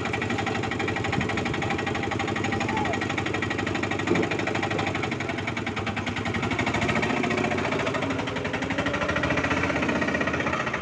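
A toy vehicle running with a steady, rapidly pulsing engine-like buzz and rattle.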